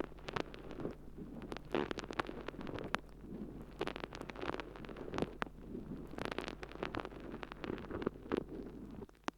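Water-soaked sponge squishing and crackling inside a microphone's artificial ear canal: a dense, irregular run of wet crackles and squelches from the sponge being pressed and rubbed, which stops just before the end.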